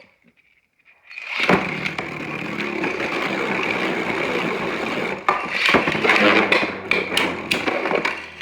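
Two Beyblade Burst tops, Lucifer The End Drift and Helios Volcano, launched into the stadium just over a second in for an opposite-spin battle, then a steady whirring and scraping as they spin, with sharp clacks as they collide, more often in the second half.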